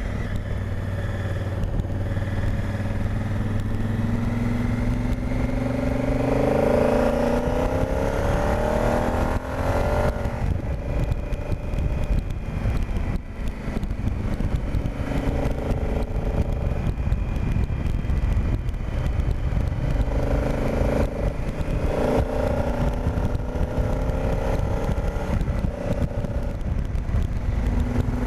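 Honda Africa Twin's parallel-twin engine on the move, climbing in pitch over several seconds as it accelerates, then dropping back twice, at about ten seconds and again near twenty-two seconds, as it shifts gear or the throttle closes, over a steady low rush of wind.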